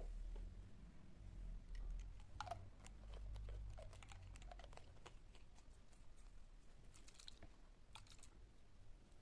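Faint, scattered light clicks and taps of small things being handled, over a low hum that fades after about four seconds.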